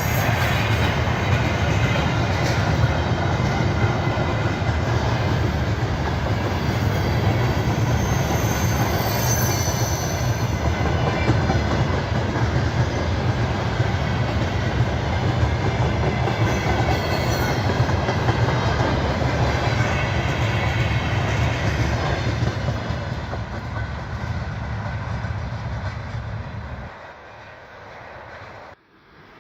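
Freight train wagons rolling past at speed, a steady heavy rumble with wheels clattering over the rail joints, dying away near the end.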